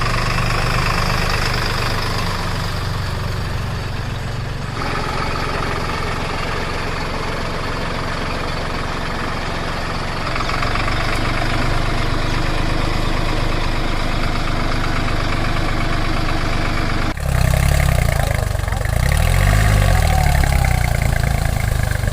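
Tractor engine idling steadily, its tone changing abruptly about 5, 10 and 17 seconds in. In the last few seconds the low engine note wavers up and down in pitch.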